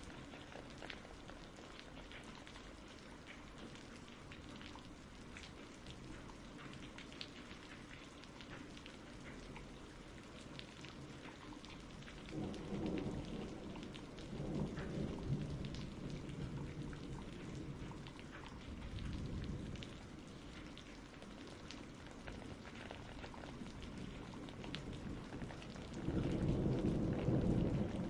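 Steady rain falling, with fine drop ticks throughout. Thunder rumbles low about halfway through, and again, louder, near the end.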